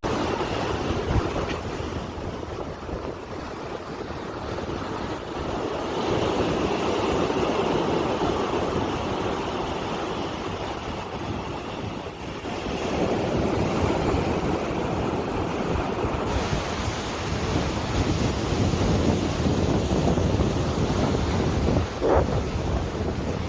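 Rushing water, surf or floodwater, swelling and easing every few seconds, with wind buffeting the microphone.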